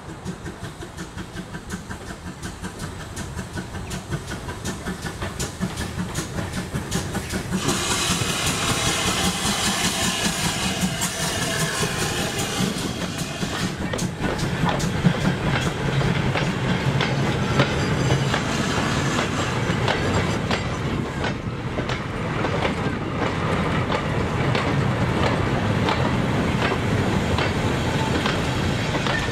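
A steam locomotive hauls a rake of old goods wagons slowly past. Its pulsing beat grows louder as it approaches, and a burst of steam hiss comes as it passes about eight seconds in. Then the wagons roll by with a steady clickety-clack of wheels over the rail joints.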